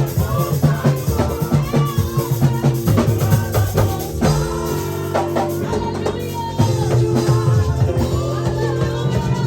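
Live church worship music: a drum kit playing under sustained chords, with singing.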